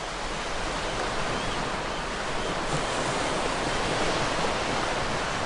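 Steady outdoor rushing noise, an even hiss with no rhythm, of the kind made by wind or water.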